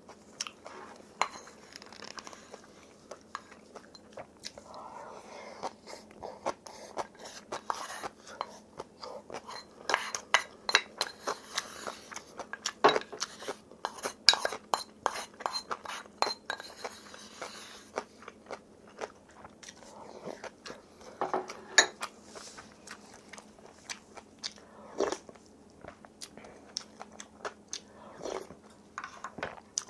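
Close-up eating sounds: crunchy bites and chewing of spicy kimchi and rice, with a spoon and chopsticks clinking against ceramic bowls. The crunches come in irregular clusters, thickest in the middle.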